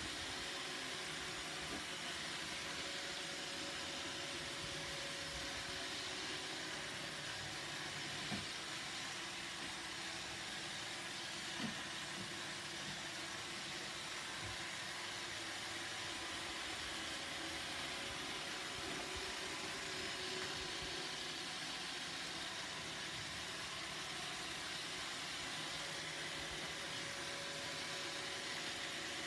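Roomba robot vacuum running, a steady whirring hiss of its vacuum motor and brushes, with two light knocks about eight and twelve seconds in.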